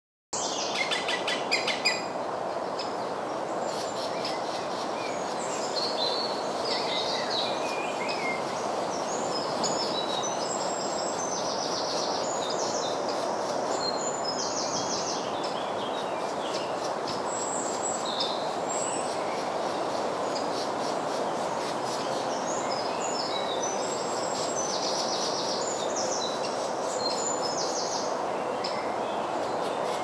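Birds calling: short high chirps and rapid trills again and again, over a steady background rush.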